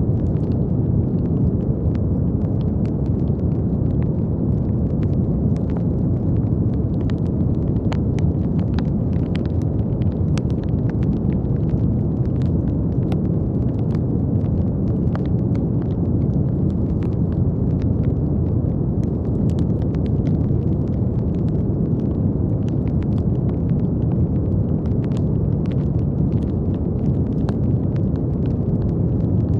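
Steady brown noise: a deep, even hiss heavy in the low end, with faint scattered clicks sprinkled through it.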